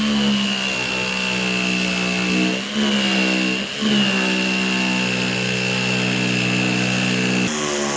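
Electric power-tool motor running steadily with a thin high whine, its pitch dipping briefly twice, about a second apart, before it evens out again.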